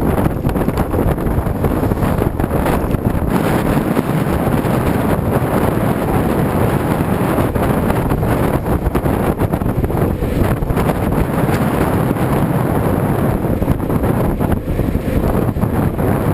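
Steady, loud wind buffeting the microphone, a continuous low rumble and hiss.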